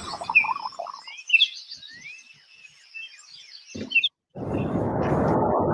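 Small birds chirping and twittering in quick rising and falling notes. About four seconds in the chirping stops, and after a brief gap a steady rushing noise begins.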